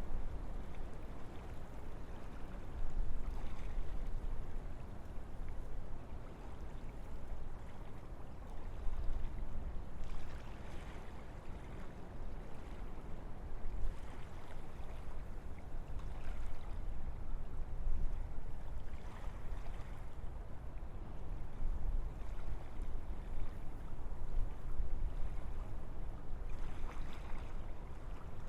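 Gentle wind blowing through forest trees: a steady low rumble with a softer rushing hiss that swells and fades in gusts every few seconds.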